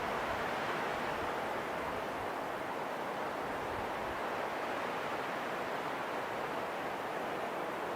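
Steady rushing wind, an even hiss that swells and eases only slightly.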